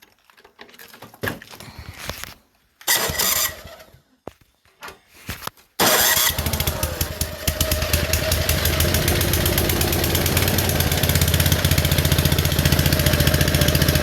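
Old Ariens snowblower engine, plugged in by extension cord for its electric starter, catching almost six seconds in after some handling noise and a short burst, then running steadily with a fast even beat in subzero cold.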